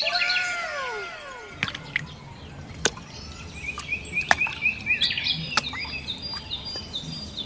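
Birds chirping in a rural outdoor soundscape: a quick run of short repeated chirps through the middle, with a call that slides up and down in pitch in the first second or so and a few sharp clicks.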